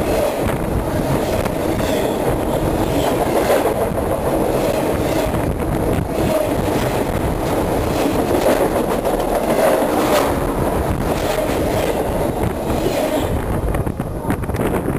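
CN Rail train cars rolling directly over a microphone lying between the rails: a loud, steady rumble and rattle with a constant stream of wheel clicks and knocks, thinning out a little near the end.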